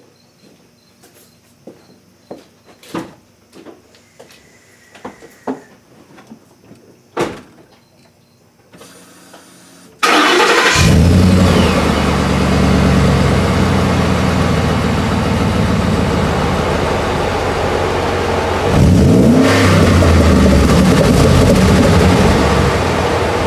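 Ford F-150's 5.0 V8 starting about ten seconds in after a few scattered light knocks, catching at once and settling into a loud, steady idle, with one quick rev and fall back to idle near the end.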